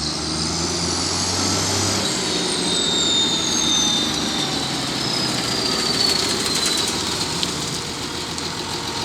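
Case International 1255XL tractor engine running. A high whine climbs for about two seconds, then falls slowly over the next five as the engine's low hum drops back.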